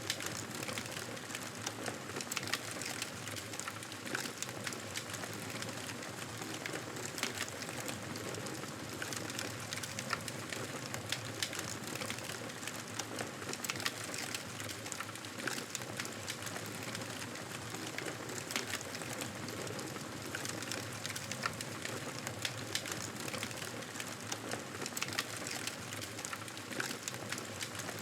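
Campfire burning, wood crackling and popping in a dense, irregular patter over a steady hiss.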